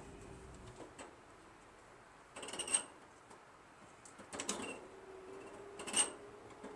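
Light metallic clicks and rattles in three short clusters, about two seconds apart: a garden tractor's choke cable and its fittings being worked into place by hand.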